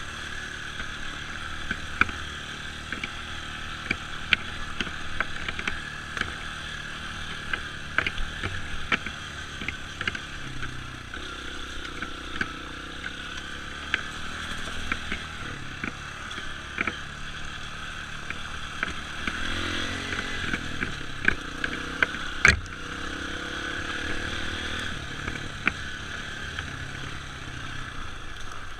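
Dirt bike engine running while being ridden, its pitch rising and falling with the throttle. It comes with frequent clicks and rattles and one sharp knock about three quarters of the way through.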